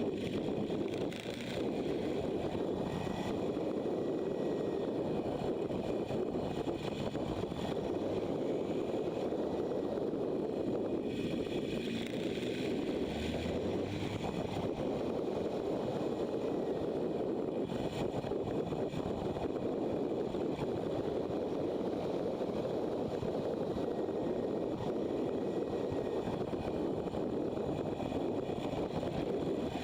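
Motorcycle riding at speed: a steady rush of wind over the microphone mixed with engine and road noise.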